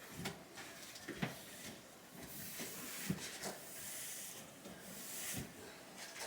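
Fridge being cleaned by hand: a cloth rubbing over the plastic surfaces with a hissing swish, and a few light knocks of parts and hand against the fridge.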